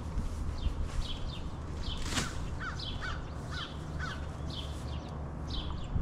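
Birds chirping: short, high, downward-gliding calls repeated every half second or so, over a low steady rumble, with one sharp knock about two seconds in.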